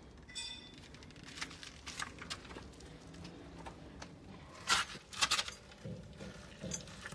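Scattered light clicks and knocks, with two louder knocks a little over halfway through, and a brief high squeak near the start.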